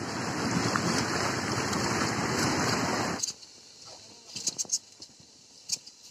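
Steady rushing roar of fast-flowing lahar floodwater, which cuts off suddenly about three seconds in, leaving a faint background with a few scattered clicks.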